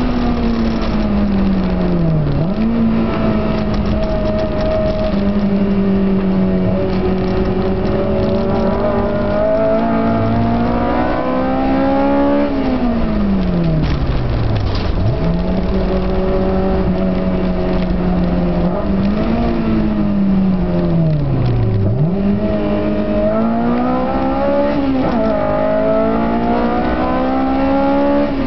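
Car engine heard from inside the cabin during hard track driving: it holds a steady pitch for long stretches, and three or four times the revs sink slowly as the car slows, then climb back sharply as it accelerates again.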